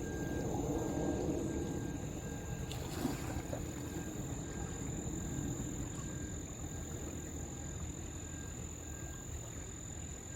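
Crickets trilling in one steady high continuous tone, over a low steady rush of background noise that is a little stronger in the first few seconds.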